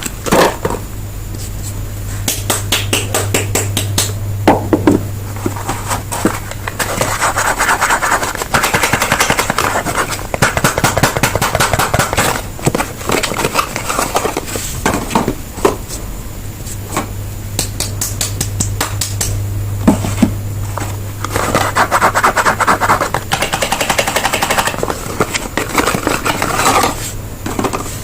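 Soap bars being unpacked by hand: wrappers and boxes crinkling and scraping, with many quick sharp ticks and taps.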